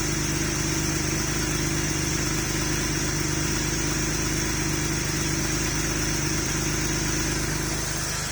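Porsche 3.2 Carrera air-cooled flat-six idling steadily as it warms up after a cold start, a little quieter near the end. The idle is even despite a leak-down test in which cylinder one held only 22 of 100 psi.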